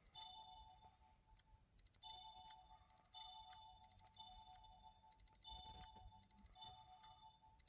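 Electronic chime sound effects from an online casino dice game, six short synthetic jingles of steady high tones in a row, each about a second long, as bets are rolled one after another, with faint clicks between them.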